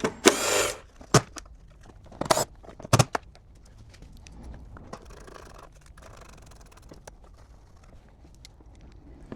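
Hand tools undoing the 10 mm bolts of a car panel: a short rasping burst and a few sharp clinks in the first three seconds, then faint scraping and rustling.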